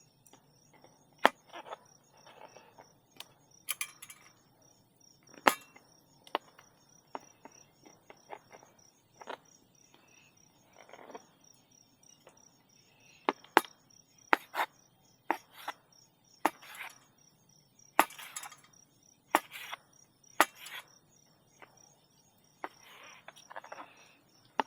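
A knife cutting shiitake mushrooms on a cutting board: irregular sharp knocks and taps. Behind them a faint insect chirp pulses steadily.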